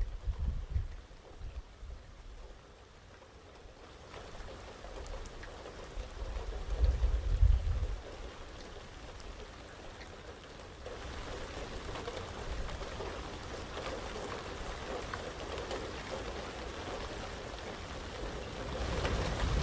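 Rain falling steadily, faint at first, then heavier about four seconds in and heavier again about eleven seconds in. A low rumble comes through briefly near the start and again around seven seconds in.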